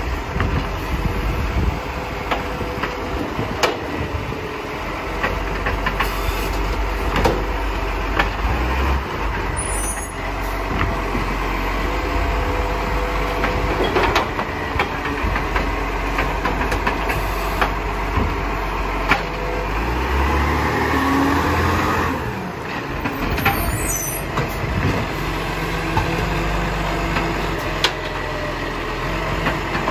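Garbage truck's diesel engine running steadily, with many sharp knocks and clatters scattered through it.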